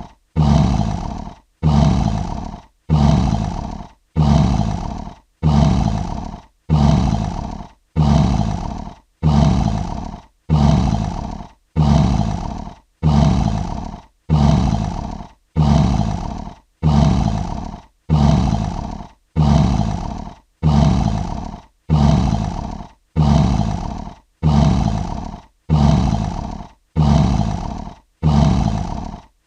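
Lion roar sound effect: one short roar repeated as an identical loop about once a second, each starting loud and fading away before the next.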